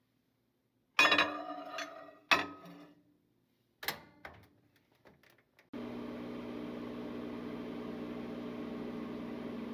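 A few sharp clunks and knocks, then a microwave oven starts running about six seconds in with a steady hum, heating a container of potting soil to sterilize it.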